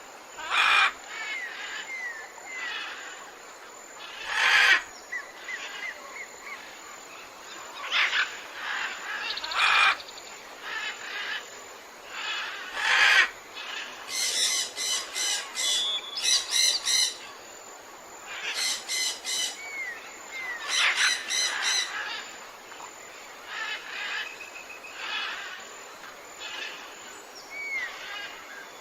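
Several birds calling and chirping over one another, with loud sharp calls every few seconds and bursts of rapid repeated notes in the middle.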